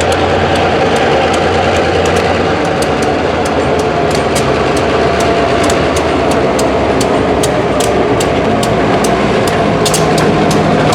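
Freight train in a rail yard: a steady engine rumble with a rapid, regular clicking, about three clicks a second.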